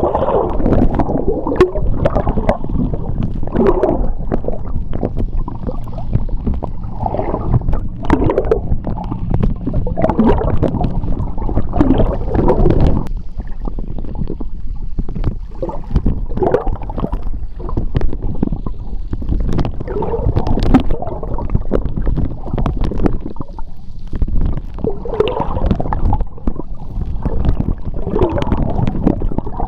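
Underwater sound of moving seawater: a steady low rumble of churning water, swelling in uneven surges of bubbling and gurgling every couple of seconds, with scattered sharp clicks.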